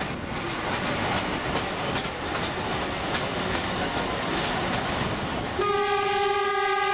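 Narrow-gauge sightseeing train rolling along, with steady rumble and wheels clicking over the rail joints. Near the end the train's horn sounds one long, steady blast.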